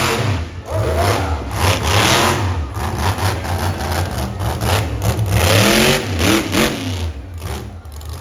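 Monster truck engine revving loud in repeated throttle surges, its pitch sweeping up more than once past the middle, then easing off near the end.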